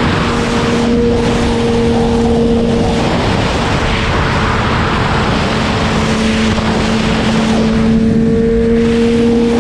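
Sport motorcycle riding at speed, heard from an onboard camera: a dense rush of wind and road noise, with the engine's note held steady. The engine note fades briefly midway and then comes back.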